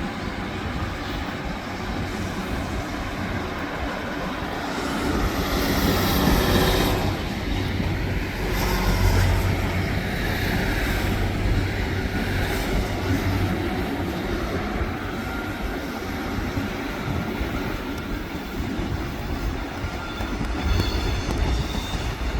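Great Western Railway diesel passenger train pulling out of the station and running past, its engine hum and wheels on the rails loudest about six and nine seconds in.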